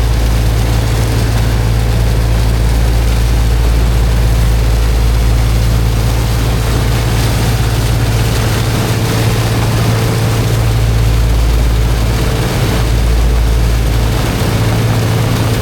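Heavy engine driving the high-pressure water pump, running steadily at constant speed: a deep hum with a steady higher tone over an even hiss.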